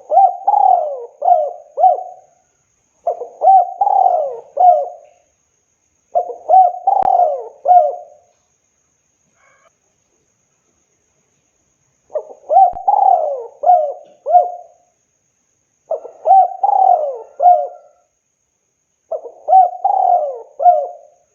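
Spotted dove (tekukur) cooing: six phrases of three or four coos each, every phrase about two seconds long, with a longer pause about halfway through.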